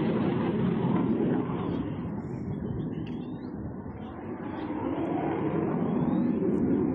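Aircraft engine noise, a steady rushing sound that eases off a little around the middle and builds again toward the end, as a plane flies by.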